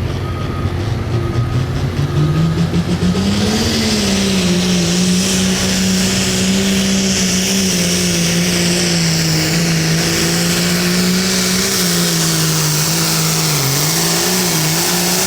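Hot Farm class pulling tractor's turbocharged diesel engine revving up over the first few seconds, then running flat out at high, steady revs under load on the sled, with a high hiss over it. The revs sag and recover briefly near the end.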